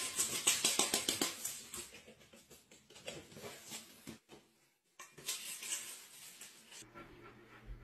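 Dry cat food rattling and clinking in a stainless steel bowl, a fast run of clicks for about two seconds, then softer clinks again a few seconds later.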